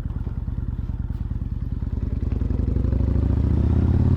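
Kawasaki Vulcan Nomad 1600's V-twin engine running at low speed with an even pulsing beat, then speeding up, rising in pitch and getting louder from about halfway through.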